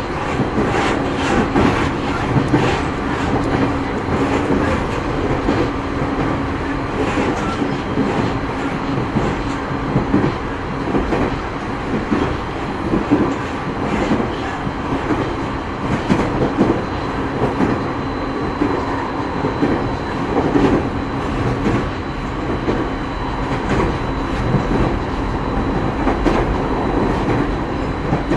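JR 209 series electric train running at a steady speed, heard inside motor car MoHa 209-2151: a continuous rumble and hum with the wheels clicking over rail joints at regular intervals.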